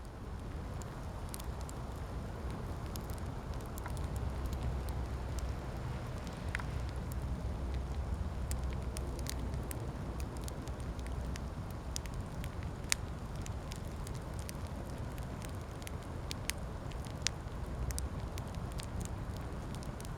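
Wood campfire burning: a steady low rush of flame under frequent sharp crackles and pops from the burning wood, with a few louder pops in the second half.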